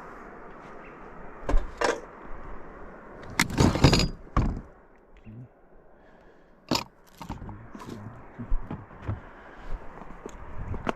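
Irregular knocks, clatters and scrapes of hard objects being handled, the loudest a quick cluster about three and a half seconds in, over a steady rushing background.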